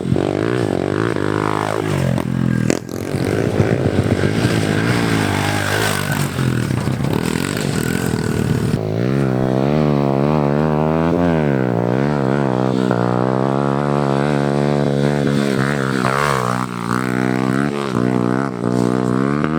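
Pit bike engines revving up and down as two bikes ride dirt jumps together. From about nine seconds in, one bike is close and loud, its pitch rising and falling with the throttle.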